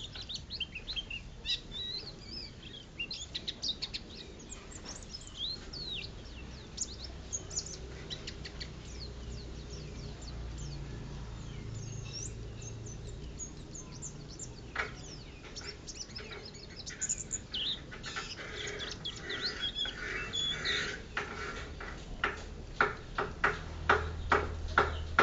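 A white-eye (pleci) singing, a fast run of high, twittering chirps and trills. Near the end, a string of sharp clicks at about two a second is the loudest sound.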